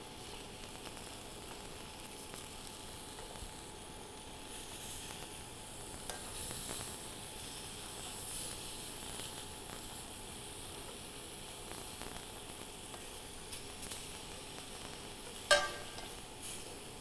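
Tofu squares in a caramelized shoyu-and-mirin sauce sizzling steadily in a stainless steel pan that is running a little too hot, being turned with metal tongs. The sizzle grows a little louder a few seconds in, and there is a sharp clink of the tongs on the pan about a second and a half before the end.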